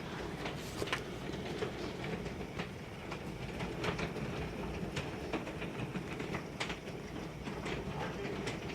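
Hailstones striking hard surfaces: many irregular sharp ticks and clicks over a steady hiss.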